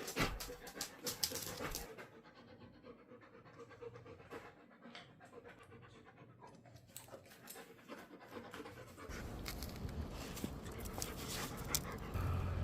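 Labrador retriever panting in quick breaths, strongest in the first two seconds and fainter after that. A low steady rumble comes in about nine seconds in.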